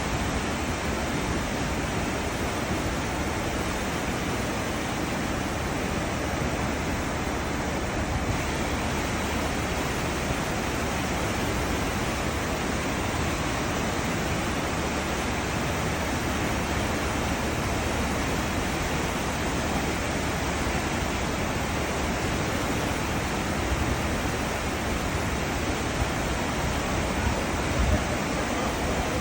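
Cruise ship's wake churning: a steady rushing of foaming water with a low rumble underneath.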